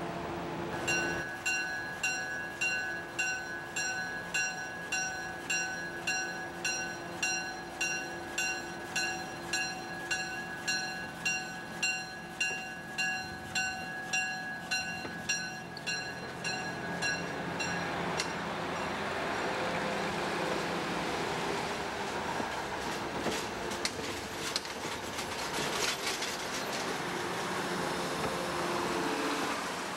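A bell rings steadily, struck about twice a second, as Budd Rail Diesel Cars approach, and stops a little past halfway. The rumble of the cars' diesel engines and the clatter of their wheels on the rails then swell as the train passes close by.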